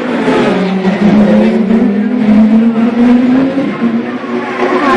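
Racing car engines at high revs, several engine notes overlapping, their pitch climbing and dropping as the cars accelerate and pass.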